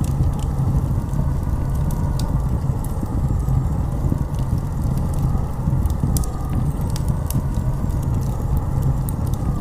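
Blizzard wind blowing hard and steadily, a deep rumble with a howl that wavers up and down in pitch, and scattered light crackles and ticks throughout.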